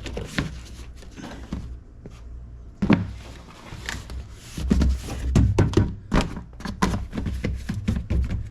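Knocks, thunks and taps from a door speaker being fitted back into a car door: one sharp knock about 3 seconds in, then a quick run of knocks and taps.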